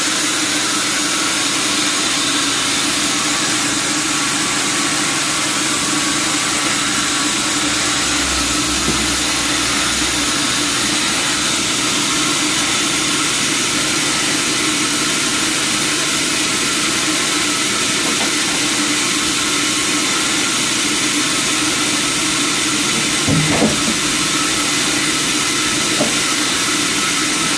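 Sawmill machinery running steadily with a continuous hissing mechanical noise, with a couple of brief knocks near the end.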